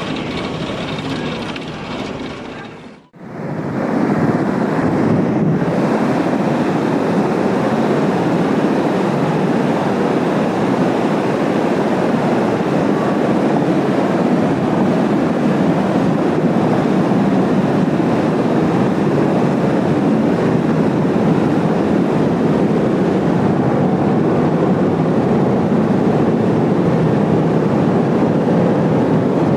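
A short stretch of sound that cuts off about three seconds in, then a loud, steady rushing noise without any distinct pitch or rhythm.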